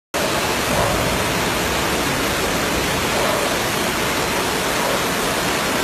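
Floodwater rushing in a steady torrent, an even unbroken roar.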